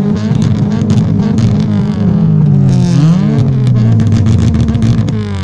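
Car engine revved hard through its exhaust: it climbs and is held at high revs with a crackling edge, drops back about halfway through, then climbs and holds high again before falling near the end.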